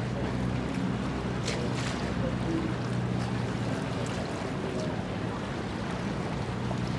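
Steady low hum of a ship's machinery with wind and water noise.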